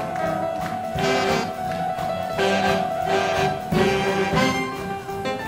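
Big band dance orchestra playing swing-era jazz: brass and reeds holding chords, punctuated by accented ensemble hits.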